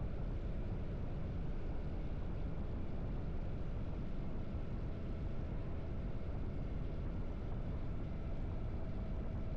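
Harley-Davidson V-twin motorcycle engine running steadily under way, a constant low rumble with no change in speed.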